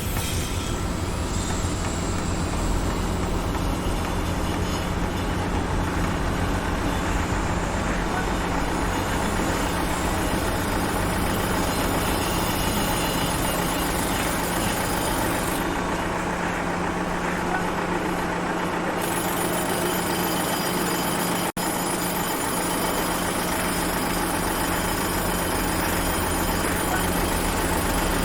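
Construction-site machinery noise: a heavy vehicle engine running steadily with a constant low hum under a dense wash of mechanical noise. The sound drops out for an instant about three-quarters of the way through.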